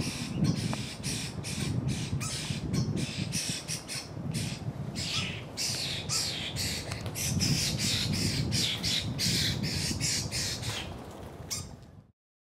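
A bird squawking over and over, several short calls a second, with a low rumbling noise underneath; the sound cuts off suddenly near the end.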